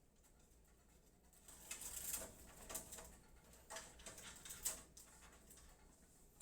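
Faint handling noises, a few short rustles and light clicks, from a computer power supply being handled before it is fitted into the case.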